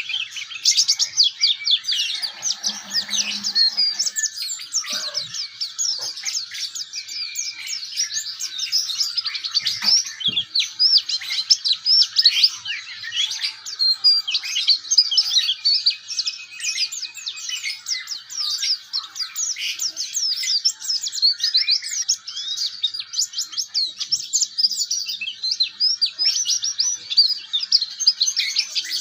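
White-eye (pleci) singing a continuous twittering song of quick, high chirps with barely a pause.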